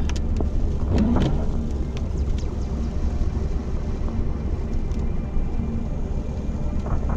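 Car being driven: a steady low rumble of engine and road noise, with a brief louder sound about a second in.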